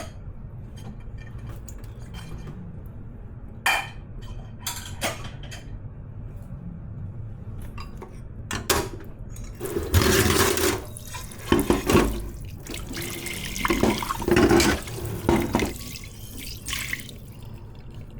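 Water from the kitchen tap rushing and splashing into the sink in several bursts as dishes are rinsed, starting about halfway through, after a few sharp clinks of dishes.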